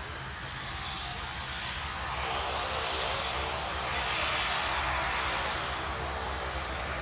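OV-10 Bronco's twin Garrett T76 turboprop engines running on the ground: a steady whine with a rushing hiss that grows louder about two seconds in.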